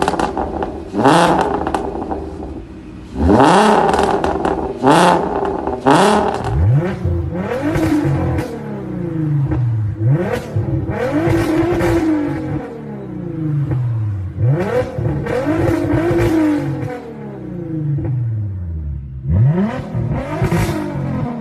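Turbocharged VW Golf R32 MK4's 3.2 VR6 engine being free-revved. First come quick blips, each rising sharply and falling back, with crackles from the exhaust. Further on come longer revs that rise and fall about every two seconds.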